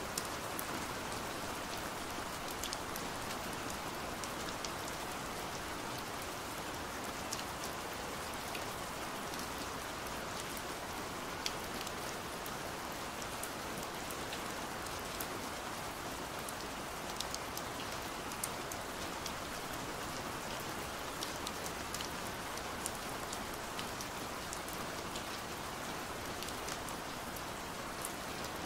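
Steady rain on a window: a constant hiss with many separate drops ticking against the glass.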